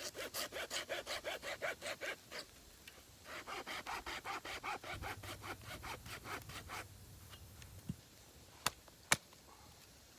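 Hand saw cutting through wood in quick back-and-forth strokes, in two bouts with a short pause between them, followed by two sharp knocks near the end.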